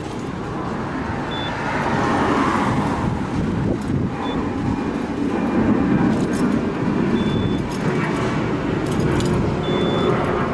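Car road and traffic noise: a steady rumble with road hiss from a car on the move.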